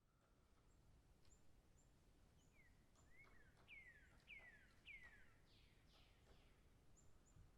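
Faint bird calls: a quick run of five or six downward-sliding whistles about midway, with thin, very high chirps scattered before and after, over a low steady background hiss.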